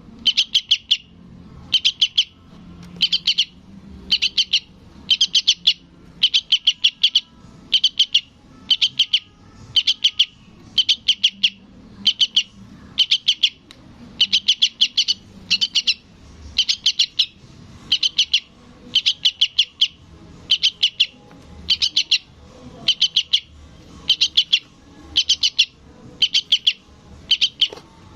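Juvenile yellow-vented bulbul (trucukan) begging for its parent: short bursts of rapid chattering notes, repeated about once a second without a break.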